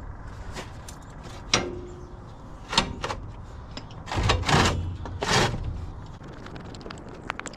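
Several short knocks and clunks, the loudest a cluster about four to five and a half seconds in, over a low steady background.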